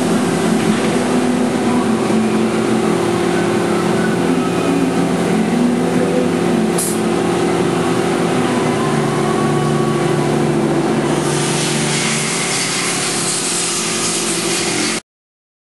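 Mazak CNC machining centre cutting on its 4th (rotary) axis: a steady machine hum with several fixed tones under a constant hiss. About 11 s in, the hiss grows brighter, and near the end the sound cuts off abruptly.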